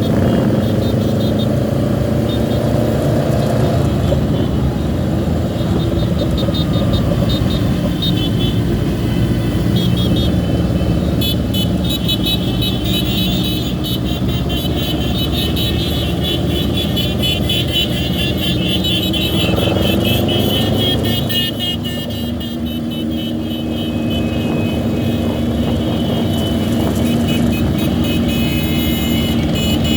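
Motorcycle engines running while riding in traffic among many other motorcycles, with wind and road noise. The engine pitch climbs twice as the bikes accelerate, once near the start and once about twenty seconds in.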